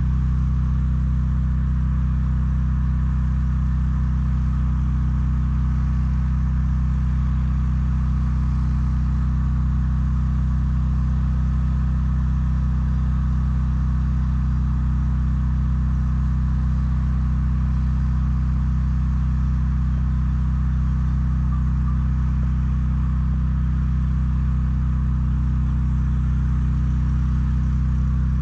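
Steady low engine hum at a constant speed, with no change in pitch or level.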